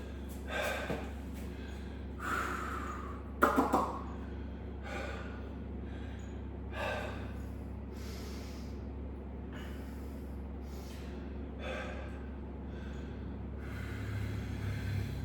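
A man breathing hard from the exertion of weighted cable ab crunches: short, noisy exhalations come every second or so over a steady low hum, with one louder burst about three and a half seconds in.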